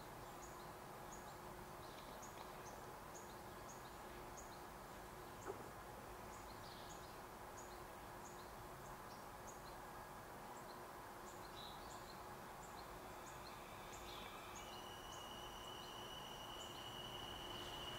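Faint, steady background hush with thin high chirps repeating two or three times a second. About three-quarters of the way in, a steady high-pitched whine begins and grows louder: the approaching train.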